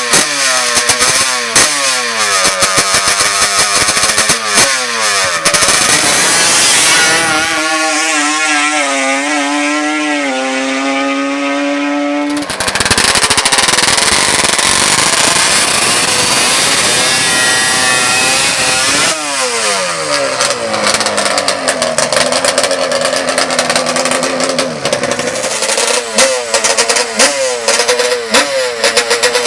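Racing ATV engines revving hard, the pitch repeatedly climbing and dropping, with a crackling edge in the first few seconds. A sustained high engine note climbs for several seconds, breaks off abruptly about twelve seconds in, and after a stretch of falling pitch the revving picks up again near the end.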